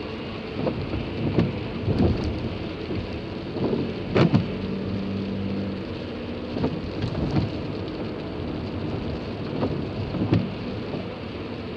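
Rain on a car's body heard from inside the cabin: a steady hiss with irregular low thumps about once a second, and a short steady tone near the middle.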